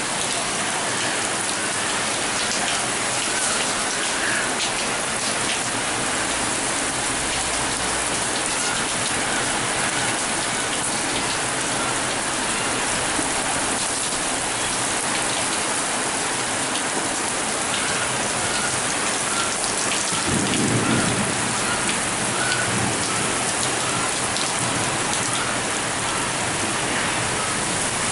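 Heavy rain pouring steadily onto surfaces, with a brief low rumble about twenty seconds in.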